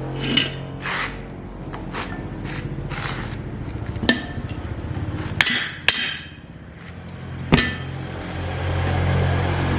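A hammer striking metal, about eight irregular blows with a short metallic ring after each, over a low steady hum.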